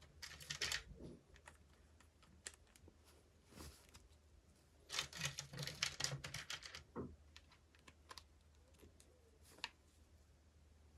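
Faint light clicking and crinkling of small plastic toy packaging being handled: a short flurry near the start, a longer flurry of rapid clicks lasting about two seconds midway, and a few single clicks in between.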